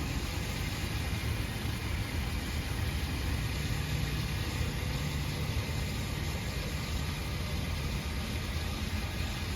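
A machine's steady low hum under a continuous hiss.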